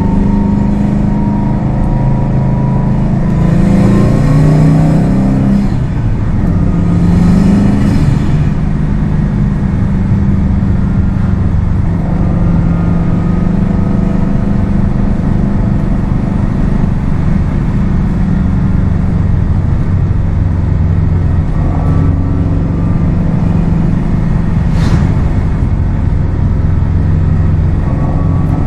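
Subaru WRX STI's turbocharged flat-four engine running while driving, with two surges of acceleration a few seconds in where the engine pitch rises, then steady cruising. One brief sharp sound near the end.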